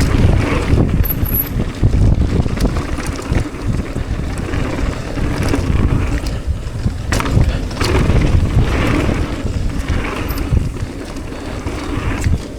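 Wind buffeting the microphone in a heavy low rumble while a mountain bike rolls down a dirt trail, its tyres hissing on the ground and the bike knocking now and then over bumps.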